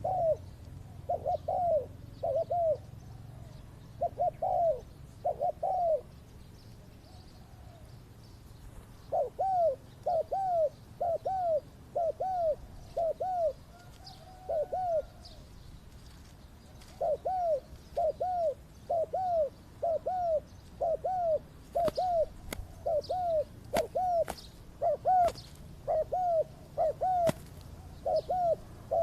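Spotted dove cooing over and over, in runs of short arched notes with brief pauses between runs. Several sharp snaps come in the second half.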